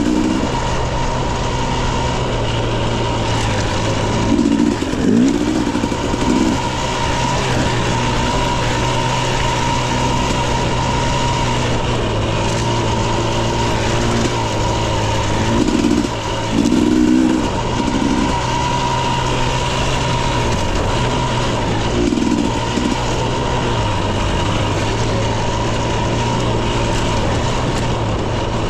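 2021 Husqvarna TE 250i fuel-injected two-stroke dirt bike engine running under way on a trail, with a steady drone and brief bursts of throttle where the revs rise and fall, about three times.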